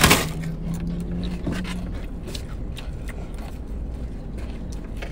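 Close-up chewing and wet mouth clicks from people eating burritos, with a sharp click at the very start, over a steady low hum.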